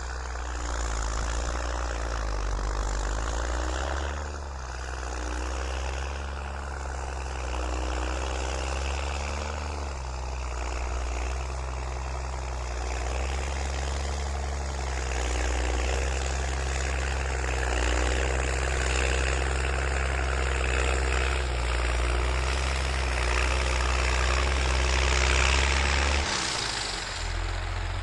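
Diesel engine of a New Holland TS6.125 tractor running steadily while pushing soil, its note wavering a little and changing near the end.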